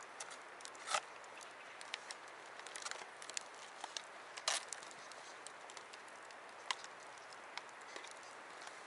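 Wood campfire crackling: irregular sharp pops and snaps over a steady hiss, with two louder pops, one about a second in and one near the middle.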